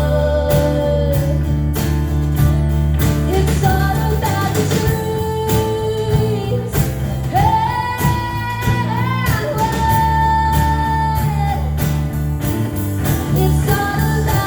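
Live acoustic band: a female voice holding long sung notes, one rising and wavering near the middle, over strummed guitar and a steady bass line.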